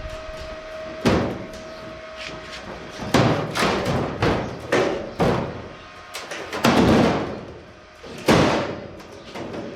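Thin steel sheet being banged: a series of loud, irregular strikes with a short ringing after each, about eight or nine in all, over a faint steady hum.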